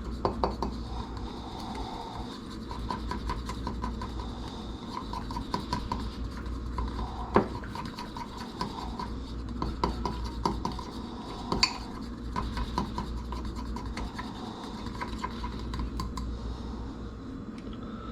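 A utensil stirring and scraping around a bowl, mixing seasoning into a honey mustard sauce: a steady run of quick clinks and scrapes, with two sharper knocks partway through.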